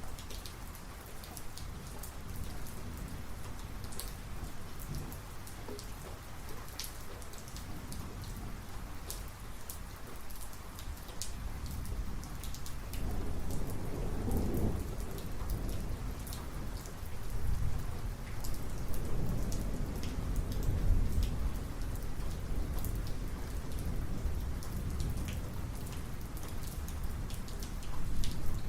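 Heavy thunderstorm: steady rain with sharp individual drops striking a surface, and rolling thunder that swells up about midway and rumbles on for several seconds before easing back.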